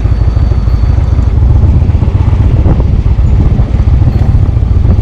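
Indian Chieftain's V-twin engine running steadily under way, a loud, dense low rumble with wind buffeting over it.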